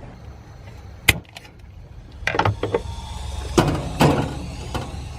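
A sharp click about a second in, then a run of knocks and clunks of things being handled inside a sailboat's cabin, over a low steady rumble.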